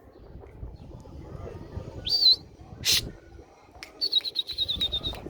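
A pigeon keeper's trilling pea whistle blown twice: a short rising blast about two seconds in, then a longer warbling blast of about a second near the end. Between them comes a brief sharp crack.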